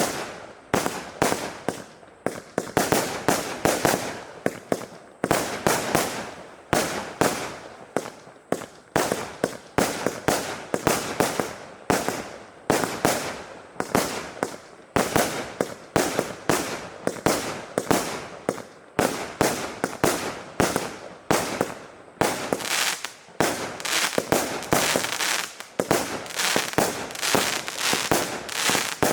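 Battery of Saturn missiles firing in rapid succession: a continuous stream of sharp cracks and pops, several a second, without a break.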